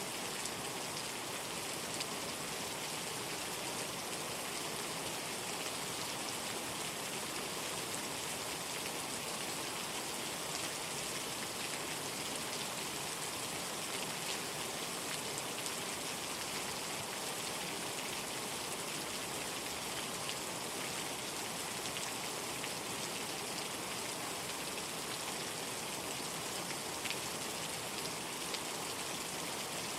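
Steady rain falling, an even hiss with scattered ticks of individual drops striking a surface.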